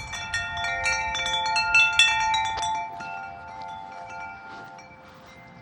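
Wind chimes jangling in gusty wind: many quick metallic strikes at several pitches that ring on, thickest in the first three seconds, then thinning out.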